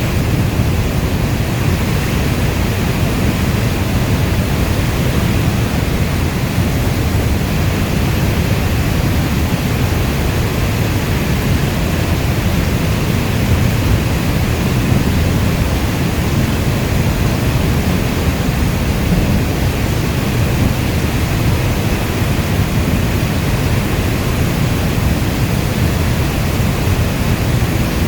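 Steady heavy rainfall: a dense, even hiss weighted toward a low rumble, with no single drops or thunderclaps standing out.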